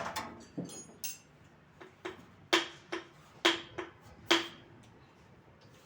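Metal tools clinking against metal, about eight sharp clinks, each with a short ring; the loudest three come between two and a half and four and a half seconds in.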